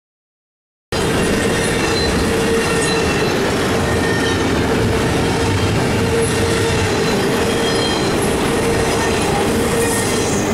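Double-stack intermodal well cars rolling past on steel wheels, a continuous rail rumble with a steady whine riding over it. The sound is completely cut out for about the first second.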